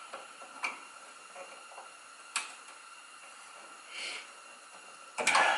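A few light metallic clicks and taps of a hand tool working at a brake hose retaining clip, then a louder clatter just before the end.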